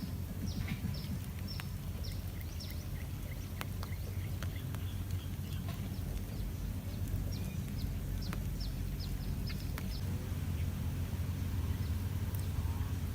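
Birds chirping in quick runs of short, high, falling notes, near the start and again from about seven to nine seconds in, over a steady low rumble.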